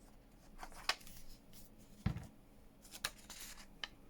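Paper and card being handled on a tabletop: rustling, a few light clicks, and a soft thump about two seconds in as a piece is set or pressed down.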